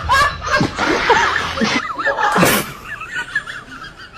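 A person laughing in quick, rapid bursts, with one short noisy burst about two and a half seconds in. Quieter wavering sounds follow.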